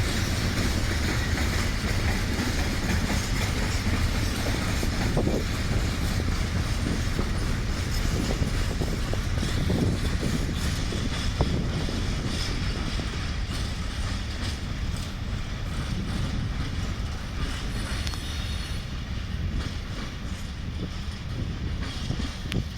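Freight train rolling through a station, wagons passing with a steady low rumble and scattered clicks from the wheels, the sound easing off near the end as the train moves away.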